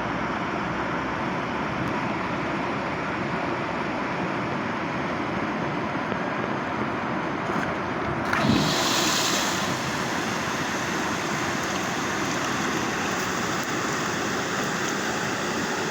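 River water rushing steadily, with a brief louder swell of the rush about eight seconds in.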